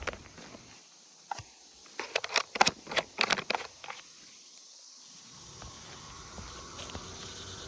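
Sharp knocks and scuffs, about two to three and a half seconds in, from footsteps and handling on an asphalt shingle roof as the camera is set back on its tripod. A faint steady rush rises over the last couple of seconds.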